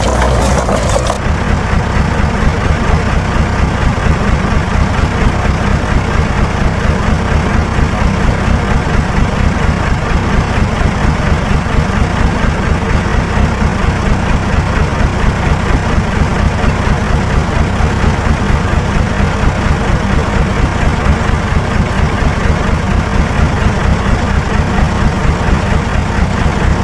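Heavy diesel engine of earthmoving equipment running steadily with a rapid, even pulse. A brighter clatter stops about a second in.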